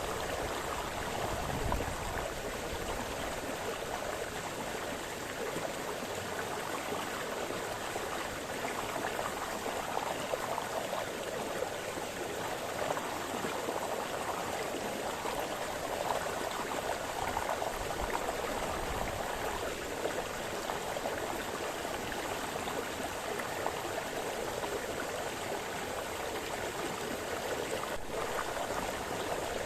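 A small brook splashing and burbling over stones, a steady rush of flowing water.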